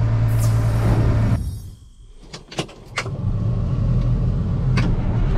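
Steady vehicle engine drone heard from inside a cab, with a strong low hum, which falls away about a second and a half in. After a few sharp clicks, a deeper engine sound comes up about three seconds in and runs steadily.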